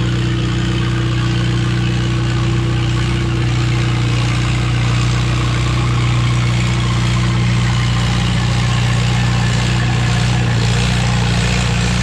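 Farmall M tractor engine running hard at a steady pitch under load, pulling the sled down the track. The engine sounds good.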